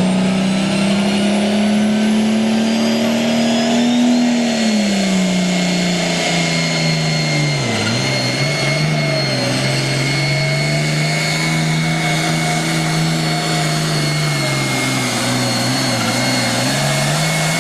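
John Deere super stock pulling tractor's turbocharged, alcohol-burning engine running at full power under load down the track. Its pitch climbs for about four seconds, then falls, sags briefly near eight seconds and holds lower, with a high steady turbo whine over it.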